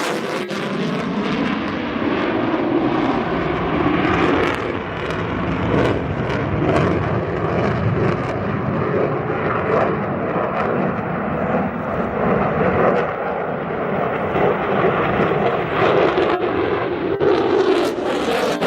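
F-22 Raptor's twin F119 afterburning turbofan engines, a loud continuous jet noise with small swells, and a sweeping hollow tone near the start and again near the end as the jet passes.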